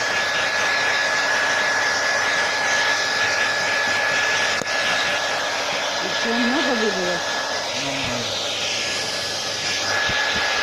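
Fans of a laptop cooling stand running, blowing the dust out of it: a steady airy whoosh with a constant high whine.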